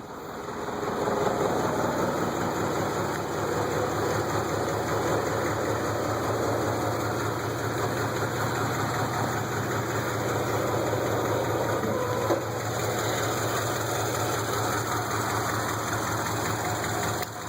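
Ford 302 V8 in a 1968 Torino idling steadily, running off a temporary gas can. The owner calls it a tired motor with bad rings and a bad cam.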